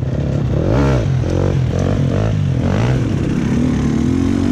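Dirt bike engine on a trail ride, revved up and down several times in quick succession as the throttle is worked, then held at a steadier, higher pitch near the end.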